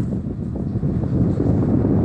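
Dust-storm wind buffeting a glass door, heard from inside the building: a steady low rushing with small gusty swells.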